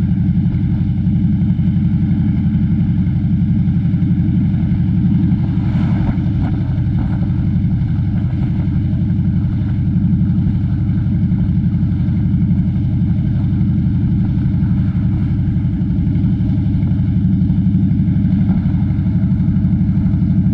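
Harley-Davidson V-twin motorcycle engine running steadily at a cruise, with an even low pulsing exhaust note and no change in revs.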